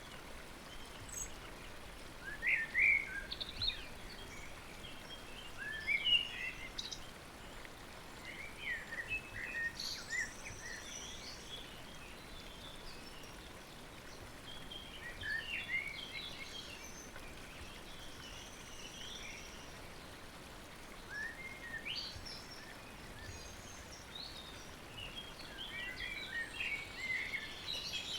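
Birds chirping in short, scattered bursts of high notes over a steady watery hiss, the ambience of a pond just after the rain has stopped.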